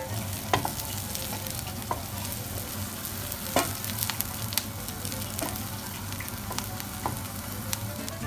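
Sliced simit and diced onion sizzling in a frying pan with a steady hiss, with scattered clicks and knocks from a spatula stirring them; the sharpest knocks come about half a second in and just past the midpoint.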